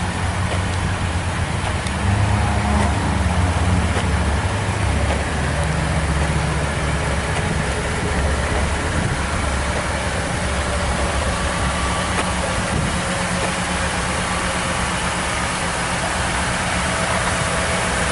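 2013 Toyota Tundra pickup's engine idling steadily, its pitch rising briefly a couple of times in the first half.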